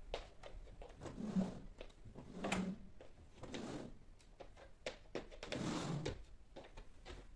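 Household cleaning handling sounds: a scatter of light clicks and knocks from objects being picked up and set down, with a few short rubbing or sliding sounds.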